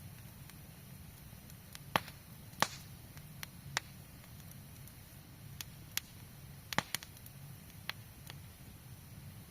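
Campfire burning and crackling, with about ten sharp wood pops at irregular intervals over a low steady rumble.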